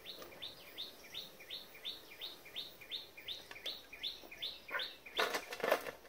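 A bird calling a short, high, falling note over and over, about three times a second. About five seconds in, the birdsong stops and there is a brief, louder clatter as fried sweet potato pieces are tipped from a wire strainer onto a metal tray.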